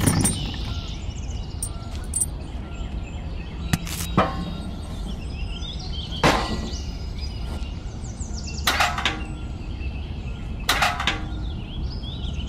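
A handful of sharp clicks and knocks, a couple of seconds apart, from small plastic and metal model parts being handled and fitted, over a steady low hum with faint bird chirps.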